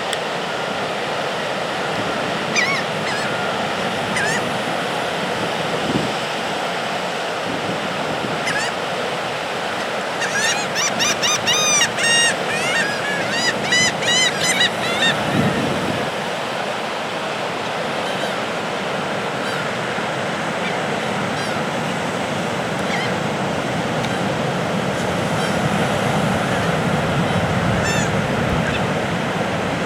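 Gale-force wind and ocean surf rushing steadily, with seabirds, likely gulls, calling over it: a few single cries, then a fast run of repeated cries for about five seconds from around ten seconds in.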